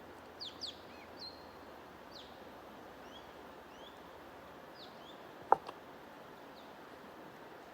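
Small birds chirping in short, quick downward-sliding notes, most of them in the first half, over a steady even rushing noise. A single sharp click about five and a half seconds in is the loudest sound, with a fainter click just after it.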